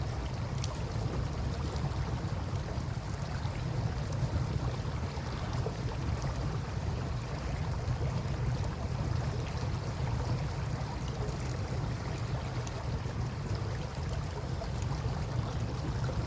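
Campfire crackling with faint scattered pops over a steady low rumble from the river and wind.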